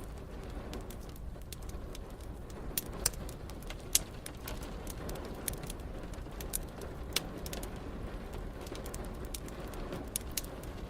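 Wood fire crackling: irregular sharp pops and snaps, the loudest a little after three and four seconds in, over a steady low bed of rain.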